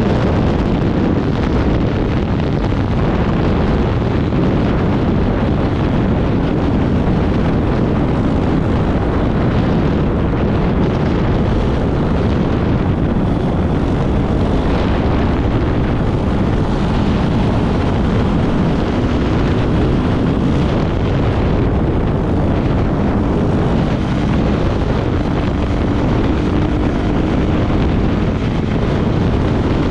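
Off-road motorcycle engine running steadily under way, buried in heavy wind buffeting on the microphone.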